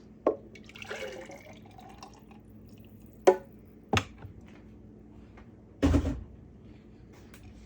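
Oil-and-vinegar salad dressing being poured into a glass mason jar, with a few sharp knocks of glass or utensils and a heavier thump about six seconds in.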